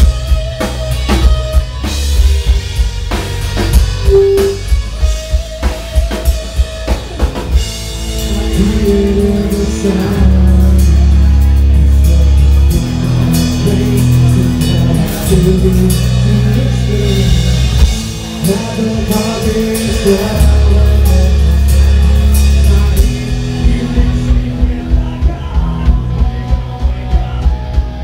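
Rock band playing loud, drum-heavy rock music: a fast drum beat at first, then sustained heavy chords over the drums for most of the middle, and rapid drum hits again near the end.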